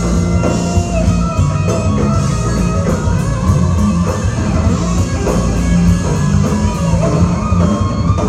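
Loud rock music with guitar and drums, played without vocals.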